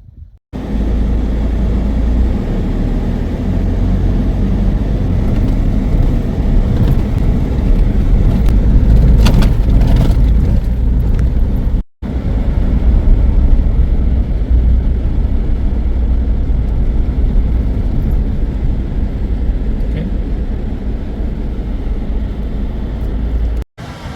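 A car driving, heard as a steady, loud rumble of engine and road noise, in three stretches broken by brief cuts about twelve seconds in and near the end.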